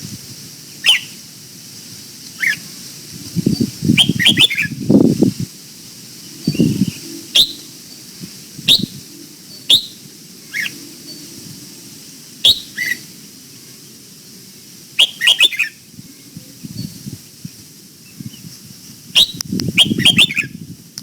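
Red-whiskered bulbul calling: short, sharp notes falling in pitch, some single and some in quick runs, at irregular intervals. Low, rough bursts of noise come in between, loudest a few seconds in and near the end.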